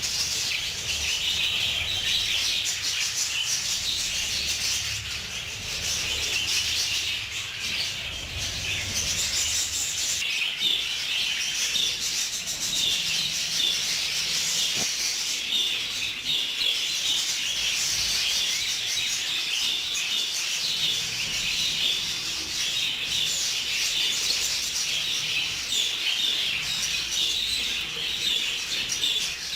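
A flock of budgerigars chattering and chirping continuously, many birds calling over one another in a dense, steady warble.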